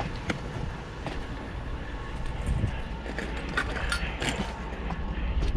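Pickup truck engine idling with a steady low rumble, while scrap metal is handled and tossed in, giving a sharp knock near the start and a cluster of metal clanks a little past the middle.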